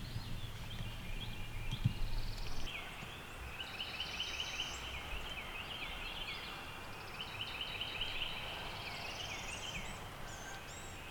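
Songbirds singing in a morning chorus: runs of quick repeated chirps and a high rising trill that comes back every few seconds.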